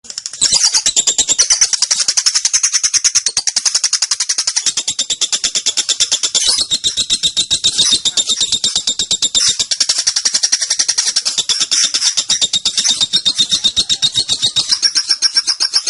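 Female lovebird giving its long, unbroken chatter (ngekek): a fast, shrill string of high chirps, many per second, keeping up without a pause.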